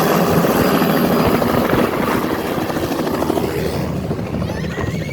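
Helicopter rotor and engine close by, a rapid beating din that grows fainter over the last few seconds.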